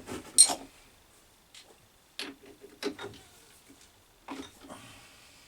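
Irregular sharp clicks and knocks of small metal parts and tools being handled, a few with a short ring, the loudest about half a second in.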